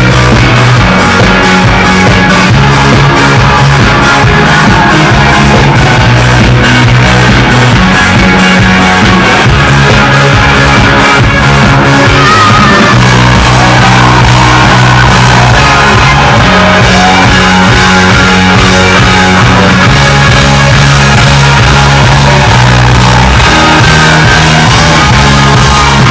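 Live rock band playing loudly together with an orchestra: sustained bass notes under a full band, with a regular drum beat plain in the first half.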